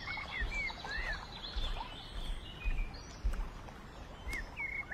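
Small birds chirping in short, arched calls over a steady outdoor background hiss, with a few soft low bumps.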